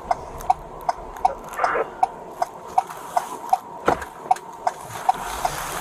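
A car's turn-signal indicator clicking steadily, about three clicks a second, inside the cabin of a patrol car. A short rustle comes about two seconds in, and a single sharp knock about four seconds in.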